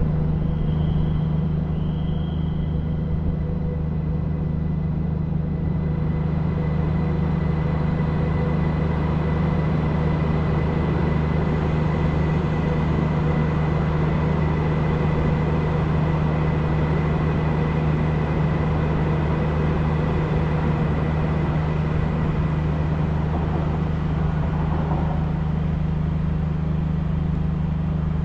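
A Chinese high-speed train running: a steady low rumble with faint whining tones over it, unchanging throughout.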